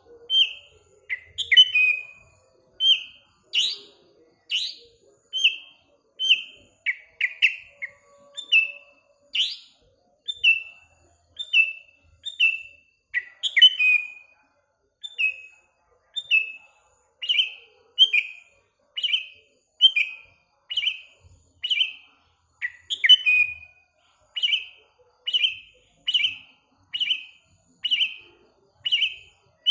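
Sooty-headed bulbul (kutilang) calling over and over with short, falling chirps, about one and a half a second, settling into an even rhythm in the second half. A few sharper, higher calls are mixed in earlier on.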